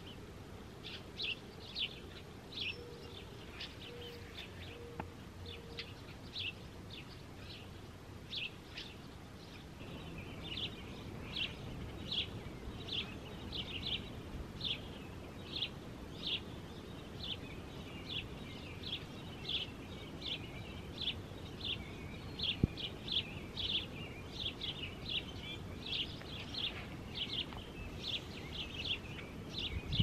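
Small birds chirping outdoors: a steady run of short, high chirps, a few a second, growing busier about ten seconds in, over a steady low background hiss.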